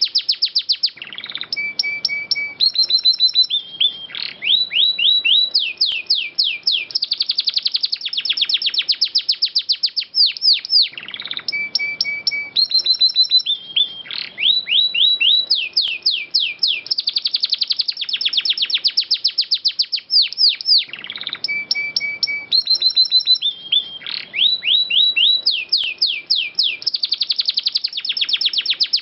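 Domestic canary singing a long, continuous song of fast rolling trills and runs of repeated notes, the same sequence of phrases coming round again about every ten seconds.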